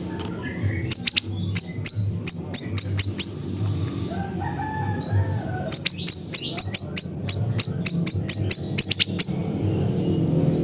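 A siri-siri bird calling in fast runs of short, sharp, high chirps, each dropping quickly in pitch, about four a second: one run about a second in, then a longer run after a pause of a couple of seconds. A steady low hum lies underneath.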